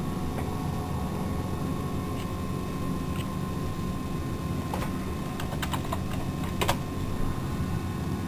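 Computer keyboard keys clicking in a few scattered strokes, mostly about five to seven seconds in, over a steady low electrical hum.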